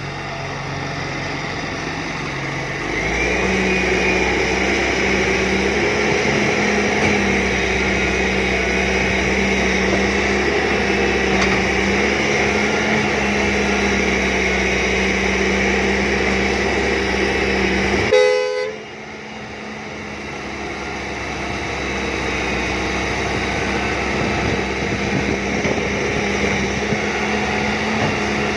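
John Deere 595D excavator's diesel engine running and revving up under load about three seconds in, then holding a steady pitch. About two-thirds through there is a brief horn-like toot, and the sound drops off suddenly before the engine builds back up.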